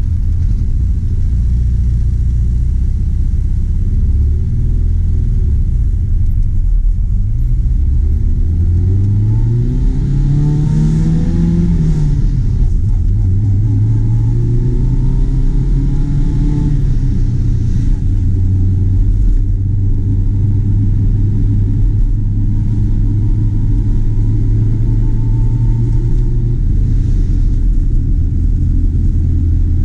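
1966 Honda S600's small four-cylinder engine heard from inside the cabin as the car is driven. The revs climb, fall away at a shift about twelve seconds in, climb again and ease off around seventeen seconds, then hold steady at a cruise over a constant road rumble.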